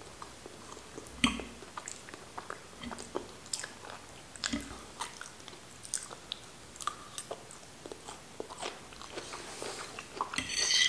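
Close-up mouth sounds of chewing and biting cooked green beans: soft wet clicks and crunches scattered throughout, with one sharper click about a second in and a louder hissy burst near the end.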